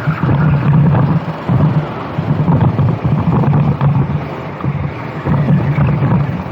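Racing kart engine heard onboard at speed, its note swelling and easing every second or so as the throttle opens and lifts, with wind rushing over the microphone.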